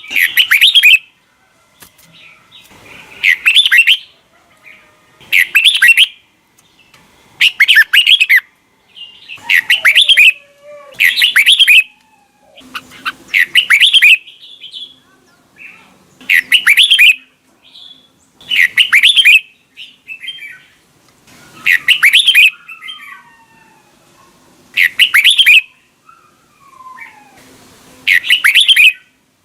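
Red-whiskered bulbul singing: short, loud warbled phrases repeated every two to three seconds, with fainter chirps and gliding calls in between.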